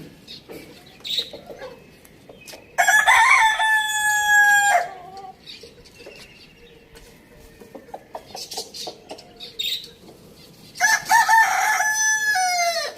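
Rooster crowing twice, two long cock-a-doodle-doo calls about eight seconds apart, each held steady then dropping at the end, with soft clucking from chickens in between.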